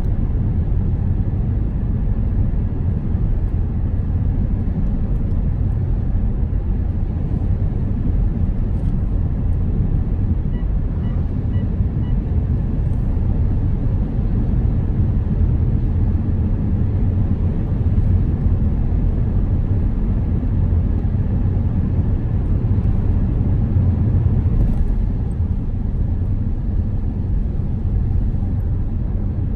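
Steady low rumble of a car driving: engine and tyre noise on the road.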